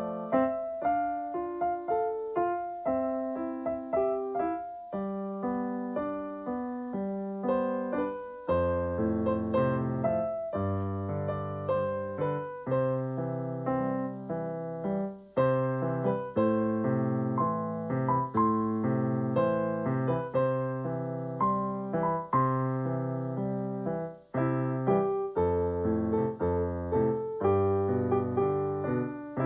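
Solo piano playing a melody over chords, each note struck and then dying away. Deeper bass notes join about eight seconds in, and the playing pauses briefly twice.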